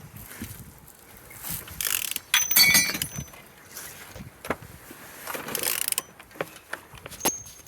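A used engine being turned over by hand, its crank rotated through the cylinders with clicking and rattling, louder in two stretches about two seconds and five and a half seconds in. The engine turns freely with compression on all cylinders.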